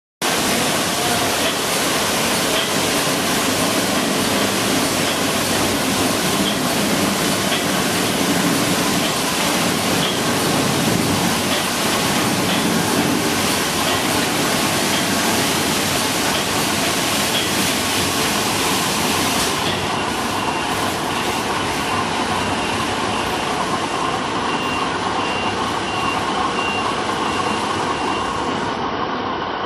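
Automatic car wash machine running, with a steady, loud rush of spraying water and machinery noise. About two-thirds of the way through the hiss thins out, as the spray changes or stops.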